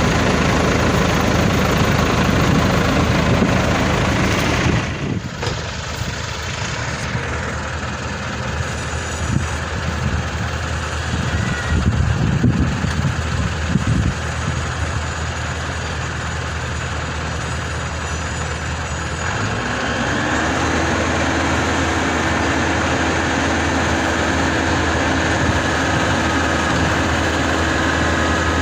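Heavy diesel engines running while a combine harvester tows a bogged-down rice truck. The engine sound drops about five seconds in and surges unevenly around twelve to fourteen seconds. Near twenty seconds it settles into a steadier run with a higher tone.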